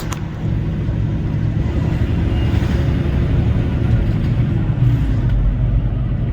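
Semi-truck running at road speed, heard from inside the cab: a steady low drone of engine and road noise, with a brief click at the very start.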